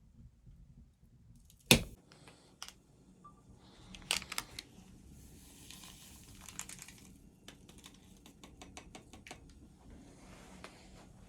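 Objects being handled at close range: a single sharp knock about two seconds in, then scattered clicks, rustling and a quick run of small ticks.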